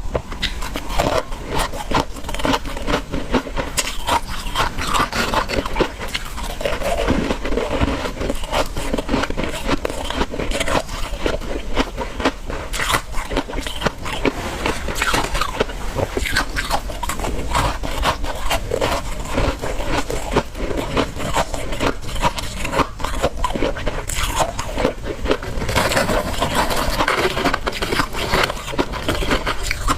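Continuous crunching of frozen freezer frost and ice being bitten and chewed, a dense run of crackles and crunches.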